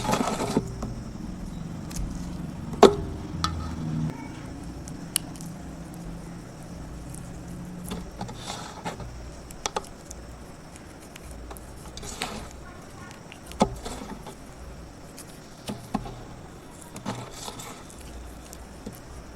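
Burnt chulha clay soaking up water: scattered small cracks, clicks and crumbling, the sharpest click about three seconds in, with a low hum under the first eight seconds.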